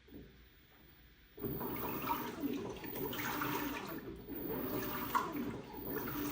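LG WT16WV6 16 kg washing machine agitating towels in its rinse water, starting suddenly about a second and a half in after a near-quiet pause: water sloshing and churning in surges that swell and ease every second or so, agitating hard.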